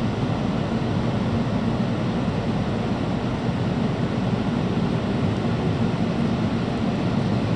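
Steady low rumble of a Tobu 70000 series commuter train rolling slowly into the platform, with no brake squeal.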